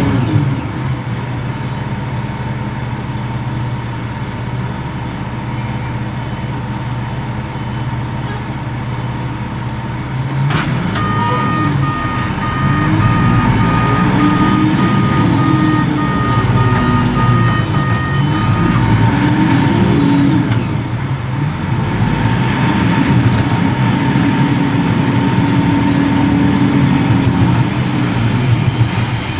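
Reach stacker's diesel engine running, revving up and down repeatedly from about 11 seconds in as the machine works. A rapid electronic warning beeper sounds from about 11 to 19 seconds.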